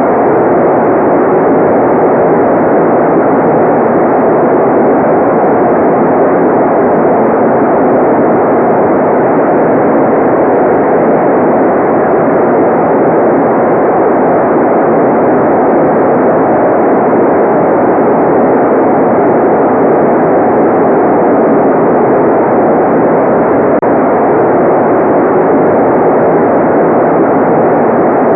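Continuous electronically generated noise played as a relaxation 'white noise' track: a steady, unchanging rushing hiss with its weight in the low-middle range and the bright top end cut away.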